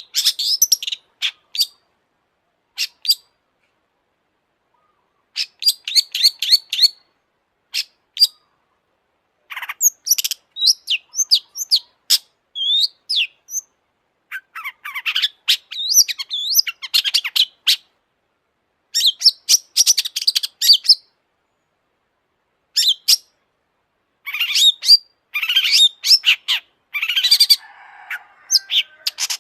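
Long-tailed shrike singing: bursts of rapid, high chirps and slurred notes, with short pauses of silence between phrases.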